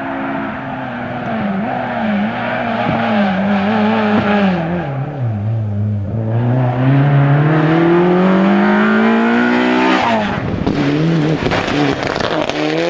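Rally car engine at full race revs: the pitch wavers, dips lowest about five to six seconds in, then climbs steadily under hard acceleration. At about ten seconds it cuts off sharply into a rapid run of crackles and pops.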